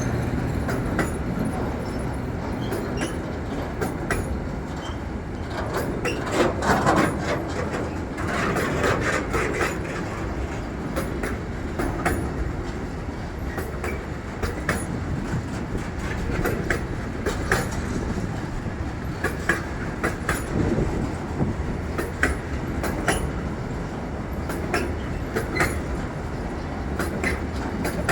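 A train rolling past, its wheels clicking over rail joints with a steady rumble underneath and a little wheel squeal.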